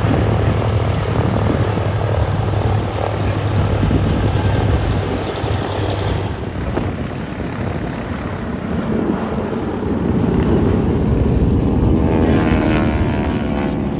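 Propeller-driven aircraft flying over, a steady engine drone that shifts in tone as it passes, with a sweeping, wavering sound near the end.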